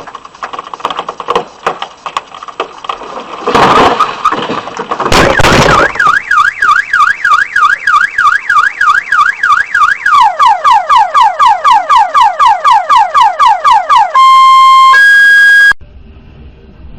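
A noisy stretch with clicks and two loud bangs, then a car alarm cycling through its tones: a fast up-and-down warble, then rapidly repeated falling sweeps, then a steady beep followed by a higher one, which stops abruptly.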